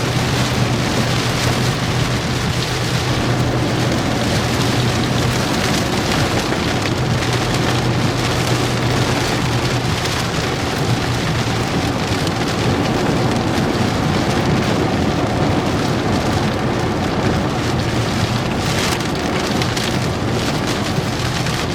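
Heavy rain drumming steadily on a vehicle's roof and windshield, heard from inside the cabin during a severe thunderstorm, with a steady low hum underneath.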